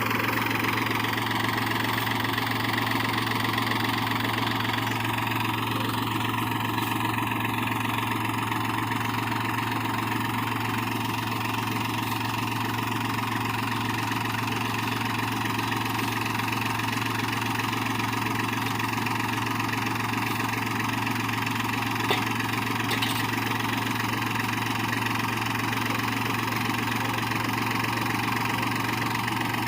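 New Holland 4710 4WD tractor's diesel engine running steadily at idle, its note unchanging.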